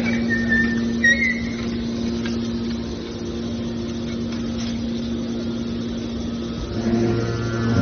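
Hydraulic scrap car baler's power unit running with a steady hum, with a few short high metal squeals in the first second or so. Near the end the hum grows louder and a lower tone joins it, as the machine takes on load.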